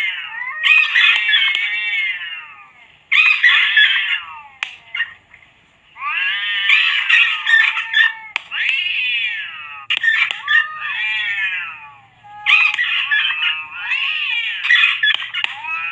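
High-pitched animal squealing and shrieking in repeated bursts of a second or two with short breaks, the pitch sliding up and down rapidly, as played on a rodent-repellent recording of rat screams and cat cries.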